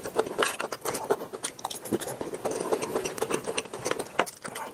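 Close-up eating sounds: wet chewing and biting with many small irregular clicks.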